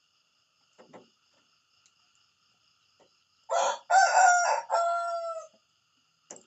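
Rooster crowing once, a cock-a-doodle-doo of about two seconds starting about halfway in.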